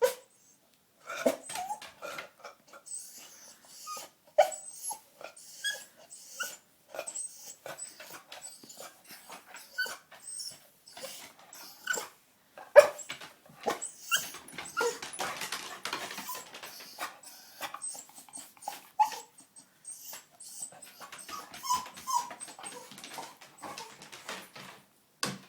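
Corgi whining in short high whimpers, over and over, among many small clicks and taps and a breathy stretch around the middle: impatient whining to be taken for a walk.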